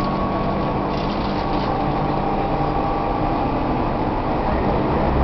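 Tobu 1800 series electric train running at speed, heard inside the passenger car: a steady rolling rumble with the even hum of the motors and gears.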